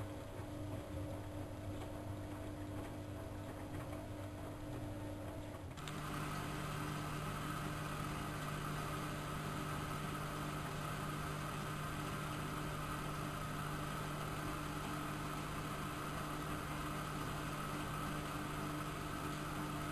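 Siemens Siwamat 6143 washing machine running with a steady mechanical hum. About six seconds in, the hum jumps to a higher pitch, a little louder, and holds steady from then on.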